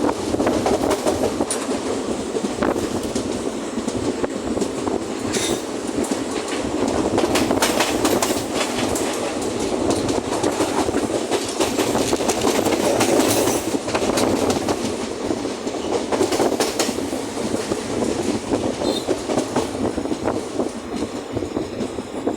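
A passenger train running along the track: a steady rumble with the wheels clattering over rail joints in clusters of sharp clicks every few seconds.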